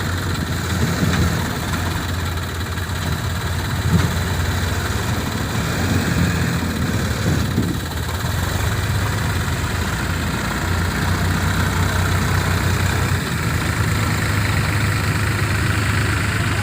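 Heavy diesel engine running steadily at a low, even speed, with a brief knock about four seconds in.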